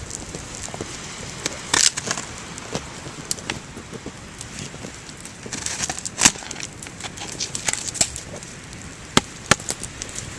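Small wood fire crackling, with irregular sharp pops and snaps over a steady hiss and a short cluster of snaps about two seconds in and again around six seconds in.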